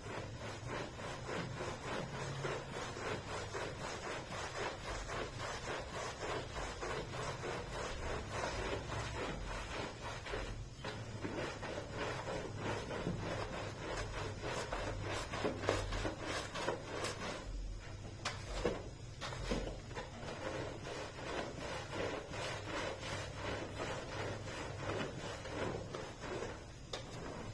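Carpet pile being rubbed in quick, repeated strokes, a steady run of scratchy rubbing and scraping sounds several times a second.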